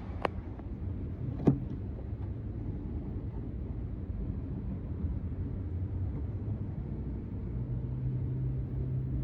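A motor vehicle running with a steady low rumble, two sharp clicks in the first second and a half, and a low steady hum coming in near the end.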